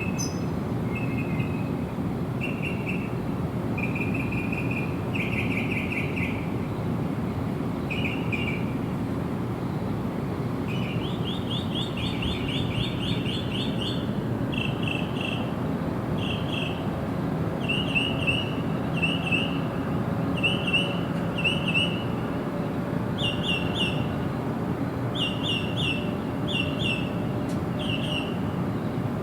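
Bird song: series of short, repeated chirps and brief trills, one after another, over a steady low background noise.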